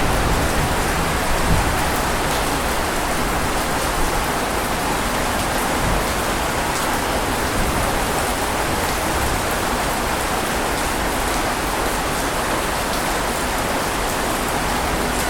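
Steady rain falling, a dense even hiss of drops on a surface. A low rumble of thunder fades out in the first second or so.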